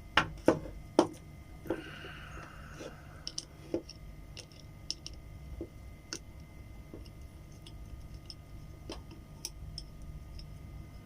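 A small screwdriver clicking against the tiny screws of a Shimano Sahara spinning reel's handle knob as they are worked loose. There are three sharp clicks in the first second, a brief scrape about two seconds in, then scattered light ticks.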